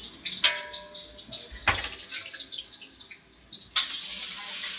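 Utensils clattering, with one sharp knock, then about three-quarters of the way in a sudden steady sizzle starts: garlic frying in hot oil in a large pot until fragrant.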